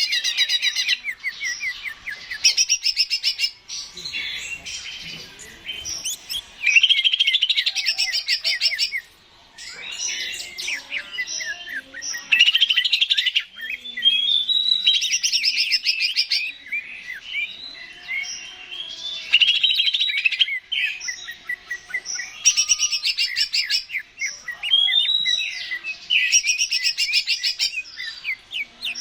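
Green leafbird (cucak ijo) singing vigorously, in fast, loud phrases of rapid repeated chirping notes, each a second or two long with brief pauses between.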